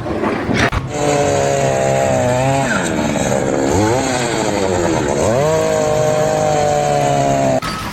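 A small engine running at high speed starts about a second in. Its pitch dips and recovers three times, and it stops abruptly near the end.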